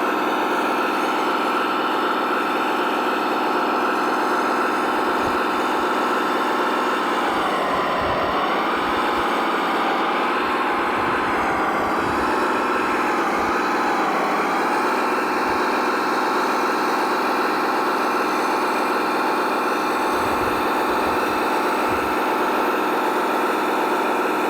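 Radio-controlled model vehicle running with a steady engine-like hum of several pitches, which dips and wavers between about 7 and 15 seconds in before settling again.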